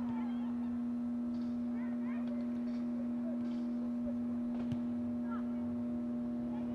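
A steady low hum, one unchanging tone, with faint distant shouts and calls over it and a single light click near the middle.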